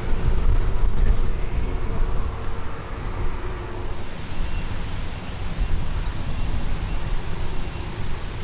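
Wind buffeting the microphone: an uneven low rumble with a hiss over it.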